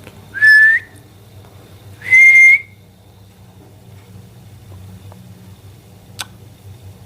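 Indian ring-necked parakeet giving two loud whistles. The first is short and bends upward at its end; the second is a held, steady note.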